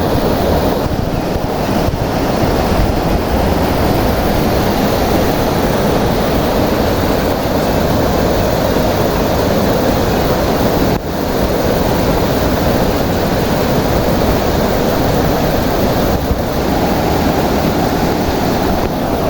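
A man-made waterfall's water pouring down, a loud, steady rushing noise with a brief dip about eleven seconds in.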